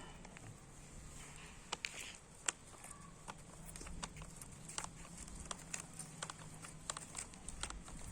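Faint room noise: scattered light clicks and taps, two sharper ones about two and two and a half seconds in, over a low steady hum.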